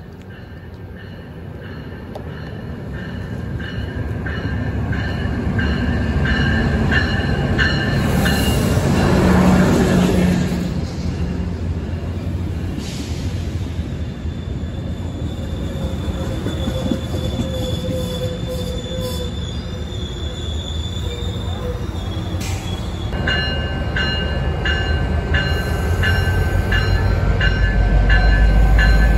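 Two trains passing at a station platform: a Metrolink commuter train on the near track and a double-stack container freight on the far one. Steel wheels squeal in high steady tones with evenly spaced clicks over the rail joints, with a rush of noise about nine seconds in. A diesel locomotive's low rumble swells near the end as it draws level.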